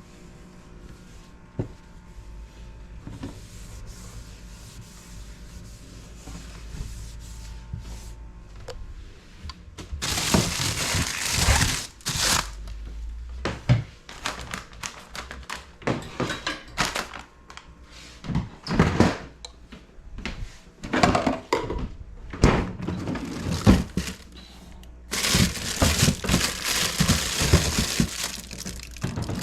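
Household items being handled while a refrigerator is cleaned out: crinkling of plastic with knocks and thunks of things being moved. Only faint clicks for about the first ten seconds, then repeated bursts of rustling and clatter.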